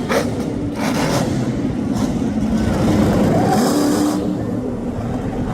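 Monster truck engine running loud and revving, its pitch swinging up and down a couple of times around the middle.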